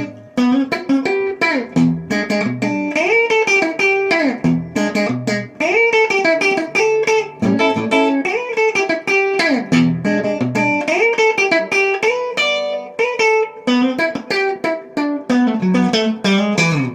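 Guitar solo in a country-rock instrumental break: a quick run of picked notes with frequent string bends and slides.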